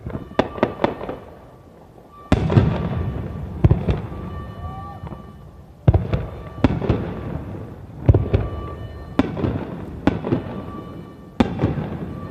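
Aerial firework shells bursting overhead. A quick run of small cracks comes within the first second, then about eight single booms follow a second or two apart, each dying away in a long echoing rumble.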